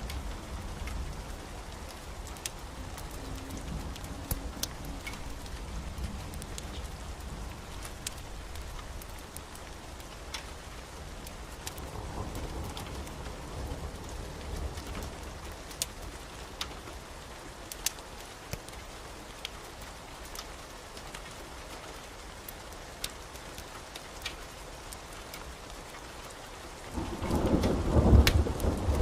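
Steady rain with scattered sharp crackles from a fireplace fire, and a low roll of thunder rising about 27 seconds in, the loudest sound.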